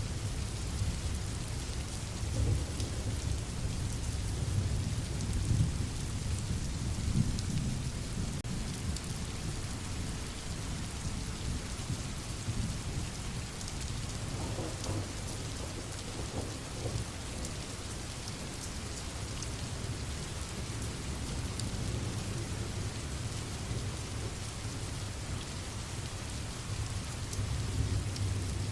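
Steady rain hissing, with low rolling thunder rumbling underneath, heaviest in the first several seconds and then easing.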